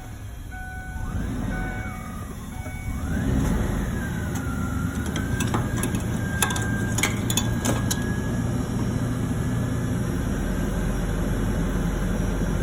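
Engine of a 2002 Ford Explorer Sport, a 4.0-litre V6, running just after being started on a newly replaced fuel pump. It revs up twice in the first few seconds, then settles to a steady idle: the new pump is delivering fuel.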